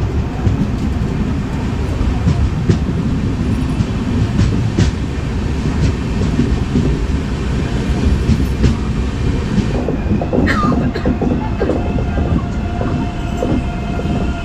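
Running noise of an express train heard from inside the passenger coach: a steady heavy rumble of wheels on rail with occasional clicks. From about ten seconds in, thin high squealing tones join it.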